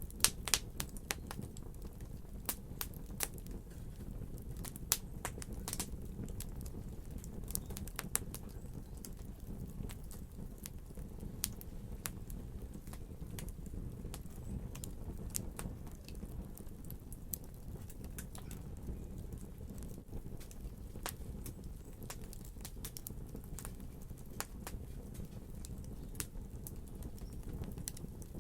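Wood fire burning in a fireplace: a steady low rumble of the flames with irregular sharp crackles and pops, most frequent in the first ten seconds or so.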